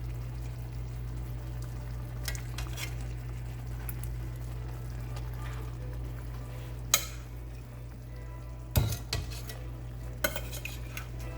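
Metal utensil clinking and scraping against a pan as chicken thighs go back into simmering tomato sauce, with a few sharp knocks about two, seven, nine and ten seconds in. A steady low hum runs underneath.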